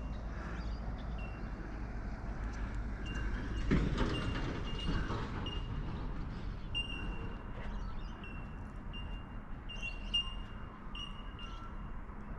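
A small bird chirping over and over, short high notes roughly twice a second, over a steady low rumble.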